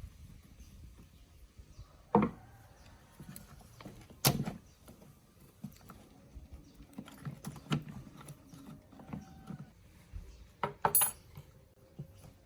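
Irregular clinks and knocks of metal parts and hand tools being handled on a workbench, with sharper knocks about two, four, eight and eleven seconds in.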